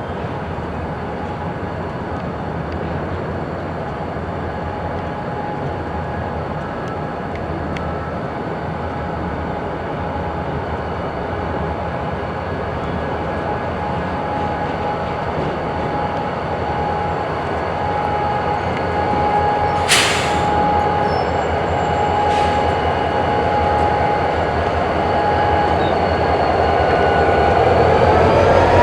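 Freight train moving through a rail yard: a steady rumble with a thin steady squeal-like tone, slowly growing louder. Two sharp metallic clanks come about two-thirds of the way in, and a whine rises in pitch near the end.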